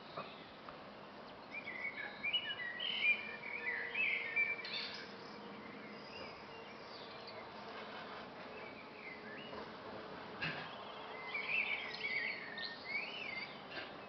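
Garden birds singing: two spells of quick, high chirping song, the first about two to five seconds in and the second about ten to thirteen seconds in. A faint steady hum runs under the middle of it.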